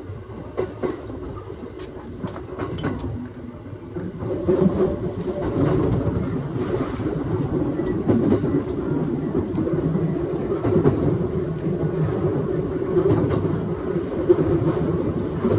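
Aoimori Railway 701 series electric train running, heard from inside the front car, with a few wheel clicks over rail joints at first. The running noise grows louder about four seconds in and then holds steady.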